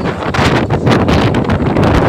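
Strong storm wind gusting and buffeting the microphone, a loud continuous roar of noise with irregular sharper gusts.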